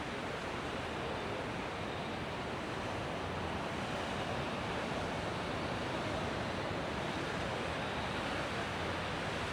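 Sea waves washing onto the beach: a steady, even rush of surf.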